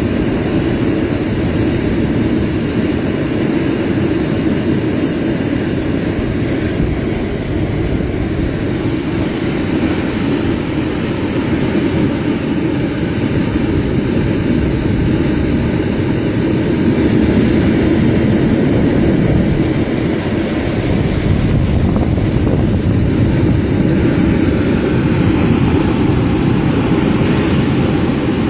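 Boat engine running with a steady drone, the water and wind noise of a boat under way mixed in.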